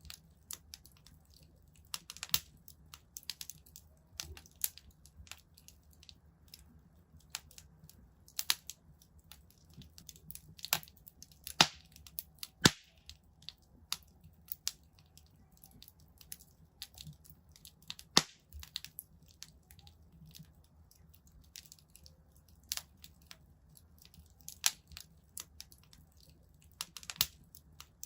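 Wood fire crackling in a fireplace: irregular sharp snaps and pops at a low background, with a few louder pops near the middle.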